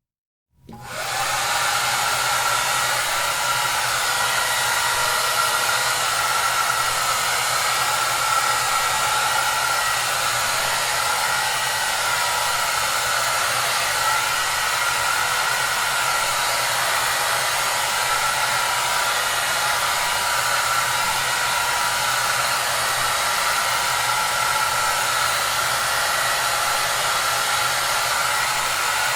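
Hair dryer running steadily: an even hiss with a faint low hum. It starts from silence about half a second in and reaches full level within a second.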